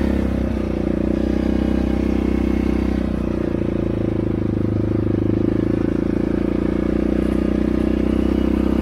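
ATV engine running steadily under way, dropping slightly in level at the very start and then holding an even note.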